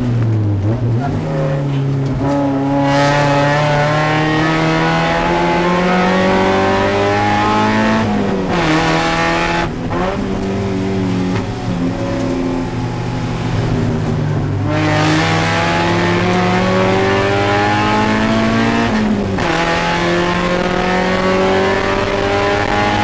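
Spec Miata race car's four-cylinder engine heard from inside the cockpit under hard acceleration. Its pitch climbs steadily and drops suddenly several times at the gear changes or lifts off the throttle.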